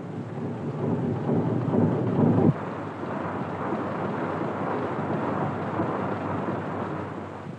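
Early diesel engine running, a dense steady mechanical noise that is louder for the first two and a half seconds and then settles a little quieter.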